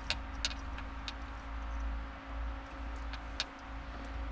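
A few sharp plastic clicks and taps as an automotive wiring connector is pushed together and handled, over a steady low rumble.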